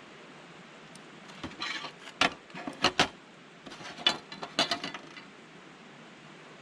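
Handling noise: a cluster of sharp clicks and clinks mixed with short rustles, from about one and a half to five seconds in.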